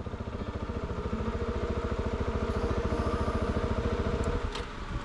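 Off-road vehicle's engine running with a fast, even exhaust pulse. It grows gradually louder, then drops away about four and a half seconds in, followed by a short sharp click.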